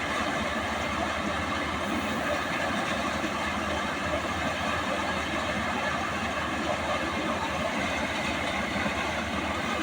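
Swaraj 855 FE tractor's diesel engine running steadily under way, a constant dense mechanical noise with no change in pace.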